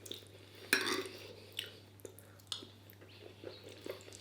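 Cutlery clinking and scraping on a plate during a meal, a scatter of short clicks with the loudest scrape a little under a second in.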